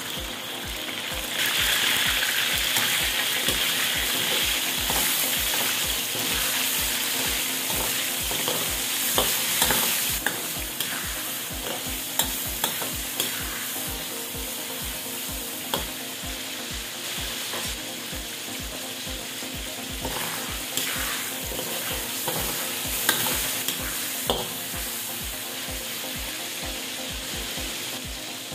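Chicken livers sizzling in hot oil in a metal wok, the sizzle swelling about a second in as they land in the pan. Scattered clicks and scrapes of a metal ladle stirring them against the wok.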